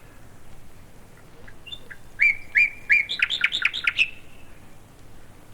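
Birdsong: faint chirps, then about two seconds in a bird sings one loud phrase of three clear whistled notes followed by a quick run of shorter notes, ending about four seconds in.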